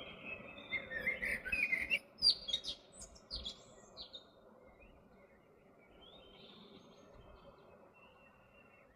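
A small bird chirping and twittering in quick, short high notes, busiest and loudest in the first few seconds, then fainter, sparser calls, over a steady low outdoor hiss.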